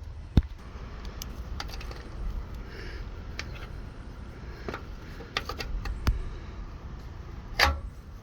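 Irregular sharp clicks and knocks, a few louder ones about half a second in, near six seconds and near the end, over a low steady rumble.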